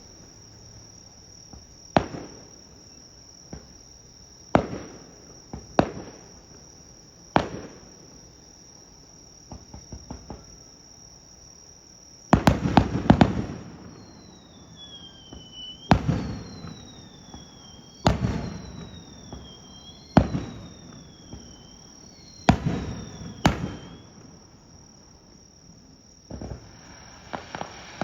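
Aerial fireworks shells bursting with sharp bangs at irregular intervals. Some bursts are followed by rapid crackling, and there are several short falling whistles in the middle. Insects, likely crickets, keep up a steady high chirring in the background.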